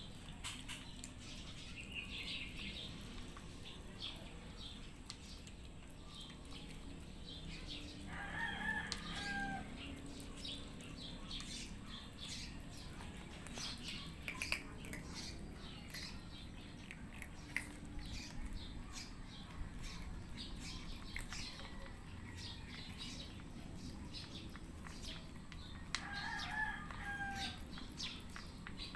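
Cats eating wet food mixed with dry kibble: many small crunching clicks. A rooster crows twice, about eight seconds in and again near the end.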